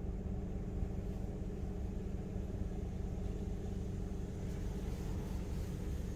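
Steady low mechanical hum with a few constant tones, from a car sitting in an in-bay automatic car wash with its engine and the wash equipment running.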